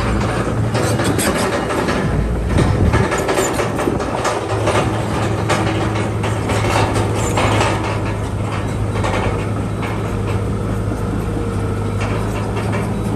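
Crawler bulldozer's diesel engine running steadily under work, with irregular clanking and rattling from its steel tracks.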